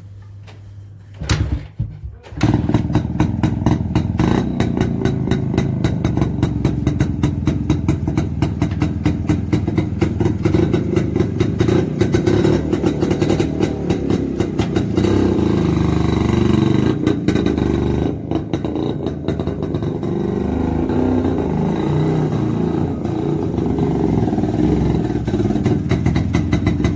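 1971 Yezdi 250 two-stroke single-cylinder motorcycle starting up about two seconds in, then running with a rapid, even popping exhaust as it is test-ridden, somewhat louder around the middle.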